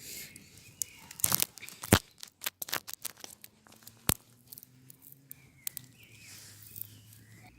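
Irregular sharp snaps and crackles with some rustling, the loudest snaps about two seconds in and about four seconds in.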